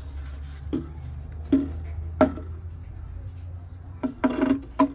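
A low steady hum under a series of sharp knocks on something hard, each ringing briefly: single knocks about a second apart, then a quick cluster near the end.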